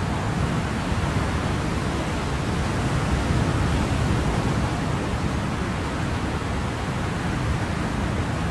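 Ocean surf: a steady wash of waves with no distinct breaks, swelling slightly a few seconds in.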